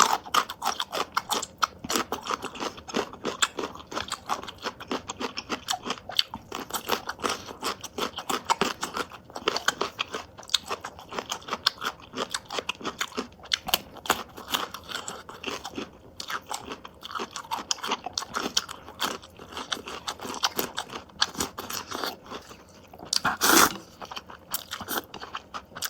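Close-miked chewing of crunchy food: a rapid, irregular run of bites and crunches, with one louder crunch near the end.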